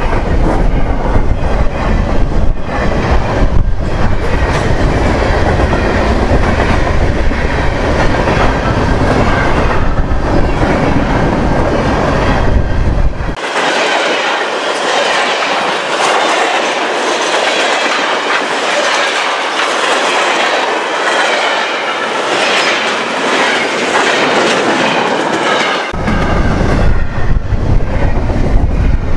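Double-stack intermodal freight cars rolling past close by at track speed: a steady loud rumble with wheels clattering on the rails. From about a third of the way in until near the end, the deep rumble drops away and leaves a thinner, hissier rush of the passing train, then the full low rumble returns.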